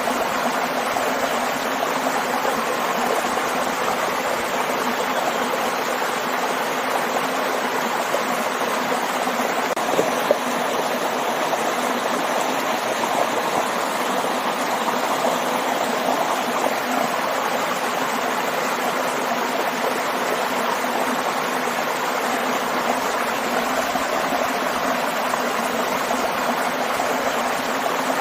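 Waterfall and stream: a steady, even rush of falling and flowing water.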